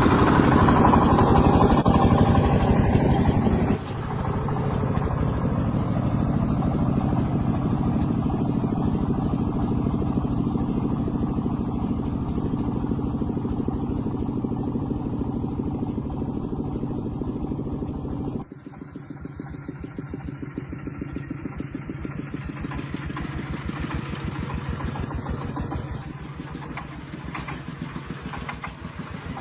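Tractor engine running steadily. The sound drops suddenly in level about four seconds in and again about two-thirds of the way through.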